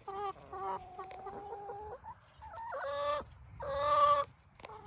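Chickens clucking and calling, with two longer drawn-out calls in the second half, the later one the loudest.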